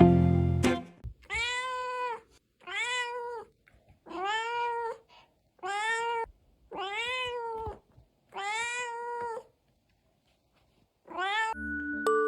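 Domestic cat meowing over and over: six drawn-out meows, each rising and falling in pitch, about one every one and a half seconds, then a short one near the end. Background music fades out about a second in and comes back near the end.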